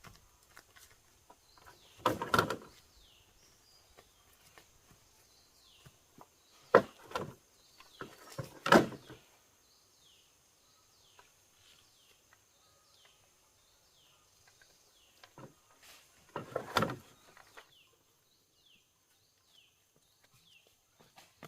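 Four short, rough scraping sounds a few seconds apart, over many small high chirps from birds throughout.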